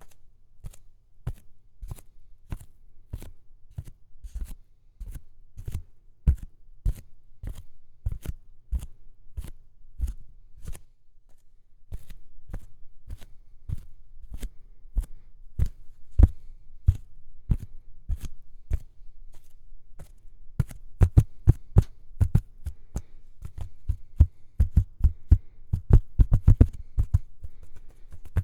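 Close-miked ASMR tapping and mouth clicks in a steady rhythm, about two to three sharp clicks a second. A low hum joins about halfway, and in the last third the clicks grow denser and heavier.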